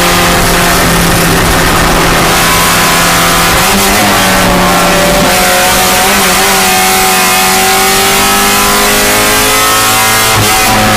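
Spec Miata race car's four-cylinder engine running hard and loud, its note steady for the first few seconds, with a brief break about four seconds in, then revs climbing steadily under acceleration.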